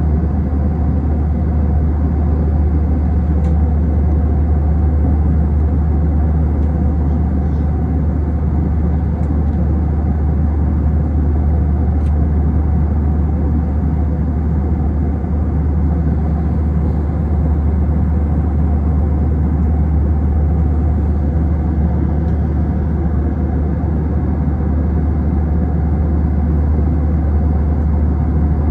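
Steady cabin noise inside an Airbus A321 airliner in flight: a constant low rumble of the engines and airflow that does not rise or fall.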